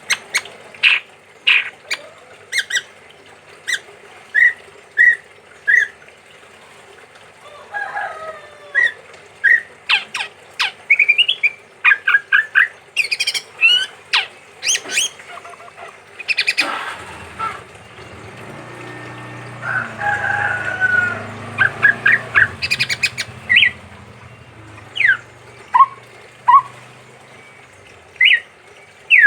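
Male chestnut-rumped babbler calling: a long series of short, sharp notes, some in quick runs. A low rumble sits under the calls through the middle stretch.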